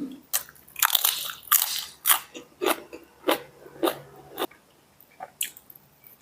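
A person biting and chewing crunchy food: sharp crunches about twice a second, fading to a few fainter ones after about four and a half seconds.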